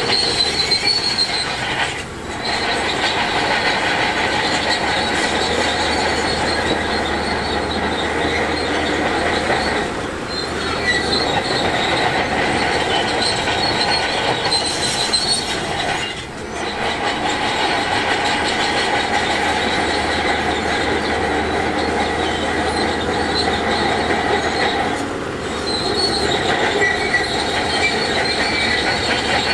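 Crawler bulldozer working, its steel tracks squealing and clanking over the diesel engine, with brief dips in the noise about every six to nine seconds.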